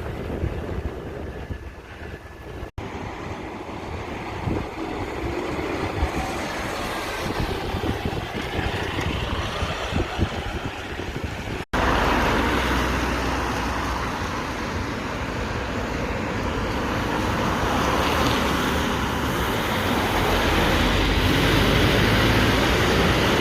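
Road traffic with trucks and cars passing, a steady rumble of engines and tyres that grows louder and fuller after a break about halfway through. The sound cuts out abruptly twice.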